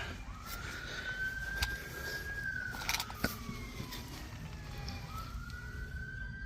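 Emergency-vehicle siren wailing: the pitch sweeps up quickly, holds, then slides slowly down, twice over, with a few light clicks in between.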